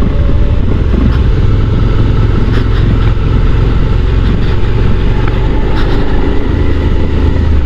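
Motorcycle being ridden slowly in a low gear, with the engine and road noise running steadily and no change in revs.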